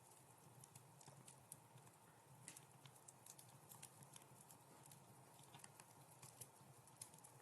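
Wood fire crackling softly, with faint, irregular snaps and pops.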